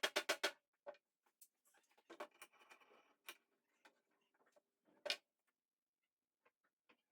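A quick run of sharp clicks, then scattered light taps and knocks with a soft rustle between them, and one louder click about five seconds in.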